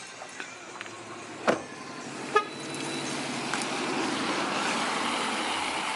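A car door shutting, then a short horn chirp as the car is locked with its remote, followed by a steady rushing noise of rain and street traffic that swells about halfway through.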